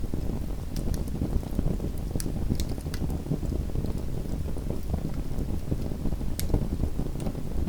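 Small wood fire burning in a home fireplace: a steady low rumble of flame with scattered sharp crackles and pops, the strongest about six seconds in.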